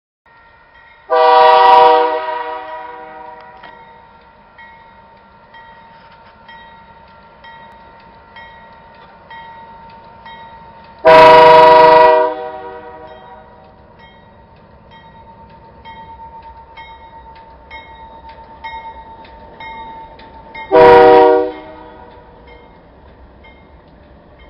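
Freight locomotive air horn sounding three chord blasts about ten seconds apart, the third one shorter, the pattern of a grade-crossing warning. Between the blasts a faint steady tone with a regular ding carries on, typical of the crossing signal's bell.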